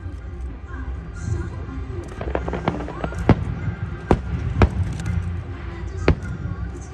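Aerial fireworks bursting: a few sharp bangs about half a second to a second and a half apart, with a quick cluster of crackles just before them, over a steady low rumble.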